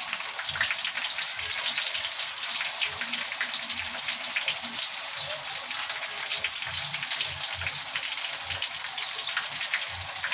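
Chicken frying in hot oil: a steady sizzle with dense, continuous crackling.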